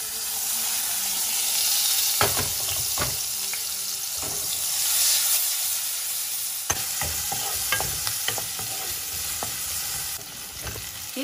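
Diced onion and garlic sizzling in hot oil in a non-stick wok over a medium flame. A spatula stirs them, with scattered scrapes and taps against the pan.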